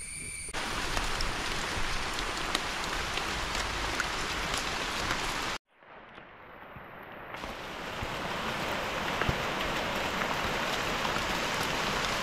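Heavy rain falling, a dense steady hiss with scattered patter of individual drops. It cuts out suddenly about halfway through, then fades back in and builds again.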